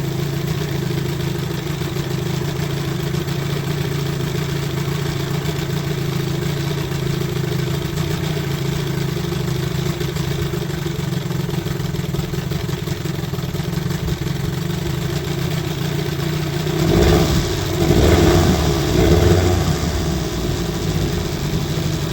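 Old outboard motor running steadily in gear, driving a small boat. Near the end there is a louder rushing noise lasting a few seconds.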